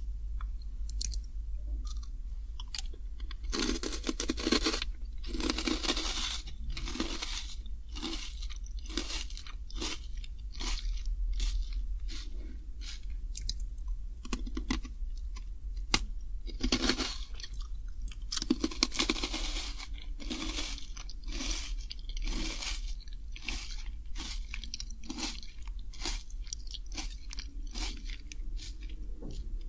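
Close-miked crunching and chewing of crispy sea-salt fried potato sticks: a run of crisp crunches that comes in two louder spells, about four to seven seconds in and again from about seventeen to twenty-three seconds, with quieter chewing between.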